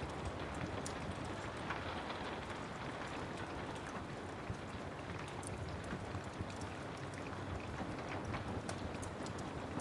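Steady rain falling, with scattered sharp crackles and pops of a wood fire in a fireplace.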